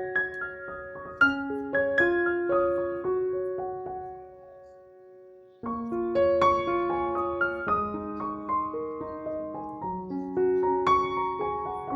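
Background piano music: a gentle melody of struck notes that fades out about four seconds in, then starts again abruptly a little past halfway.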